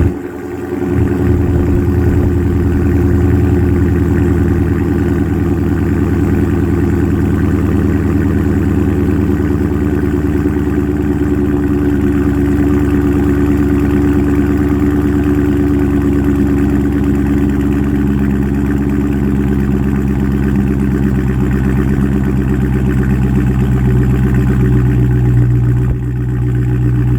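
2019 Dodge Charger Scat Pack's 6.4-litre HEMI V8 idling steadily just after a cold start, at an even pitch with no revs.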